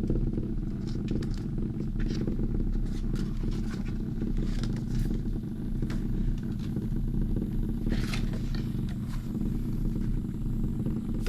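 Cat-paw vibrating wand massager running with a steady low buzz, with a few light handling rustles.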